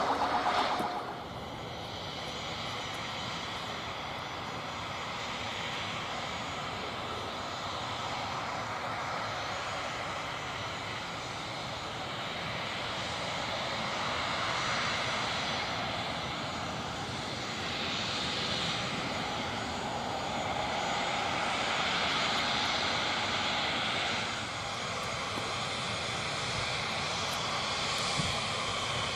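Dassault Falcon 7X business jet's three turbofan engines running, a steady jet roar with a faint high whine that swells a little and eases off again.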